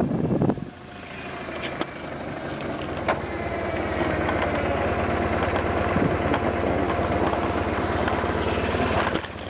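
Motorcycle engine running with a steady, fast low throb, building over the first few seconds and then holding steady. A rush of wind noise on the microphone cuts off about half a second in.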